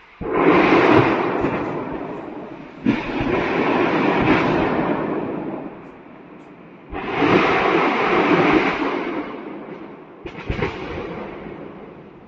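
Ammunition depot detonating: four sudden blasts, each followed by a rushing roar that dies away over a few seconds, the last one weaker and broken by sharp cracks.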